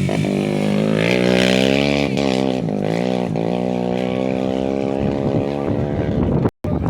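Rally vehicle engine running hard at fairly steady revs, its pitch dipping briefly twice, about two and three seconds in. The sound breaks off abruptly near the end.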